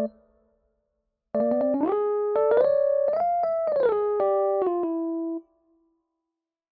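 Computer-generated keyboard tones from a DAW: a phrase of stacked chords whose notes step up and then back down, each change starting with a sharp click, lasting about four seconds and cutting off abruptly. The tail of an earlier chord dies away just at the start.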